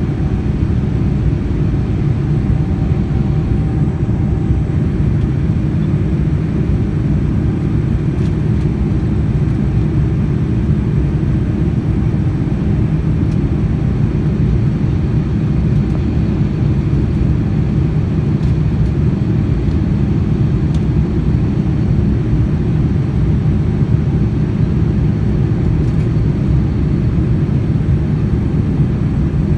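Steady, deep cabin noise inside a Boeing 787-9 Dreamliner: engine and airflow noise heard from a passenger seat, unchanging throughout, with a faint high tone that fades out in the first few seconds.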